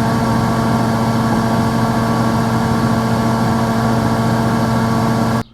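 A steady, loud machine hum at one even pitch that cuts off abruptly near the end.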